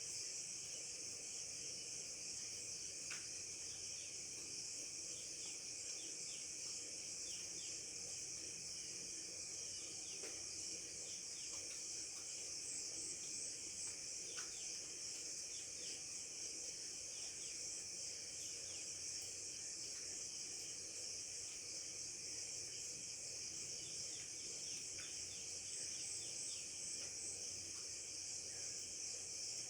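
Steady high-pitched insect chorus, with many short bird chirps scattered throughout.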